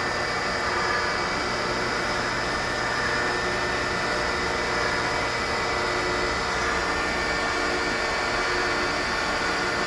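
Electric-driven high-pressure gear-type hydraulic pump of a log chopper running steadily with a hum and whine while it drives the blade down.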